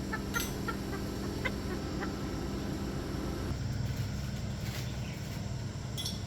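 Chickens clucking over the steady low hum of a running motor or engine, whose tone shifts about three and a half seconds in.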